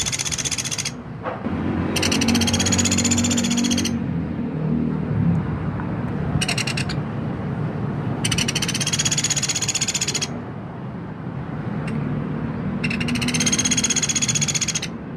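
Pelatuk beras woodpecker giving a rapid, buzzy rattling call, repeated about five times in bursts of one to two seconds, one of them brief. A steady low hum runs underneath.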